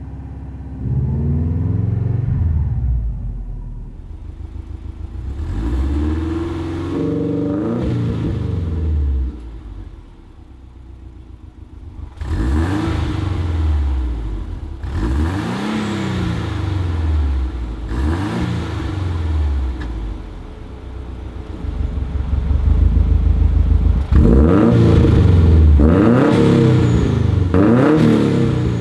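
Subaru WRX's turbocharged EJ20 flat-four revved repeatedly from idle, each rev rising and falling in pitch, through an Xforce Varex exhaust with an electronically actuated valve. The revs are fairly subdued with the valve closed, then louder and more bassy near the end with the valve open 100%.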